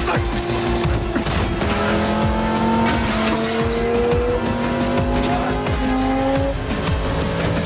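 Film sound mix of a supercar accelerating: the engine revs up in one long, slowly rising pitch, then drops about six and a half seconds in as it shifts gear, over a dramatic music score.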